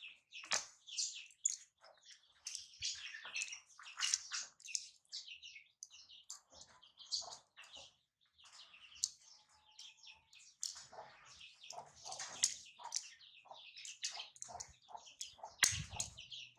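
Small birds chirping and twittering continuously in quick, high-pitched notes, with one sharp click near the end.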